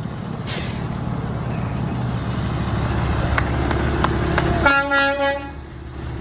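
Truck engine running with a loud low rumble, a short hiss about half a second in, then a horn sounding for about a second as the engine noise drops.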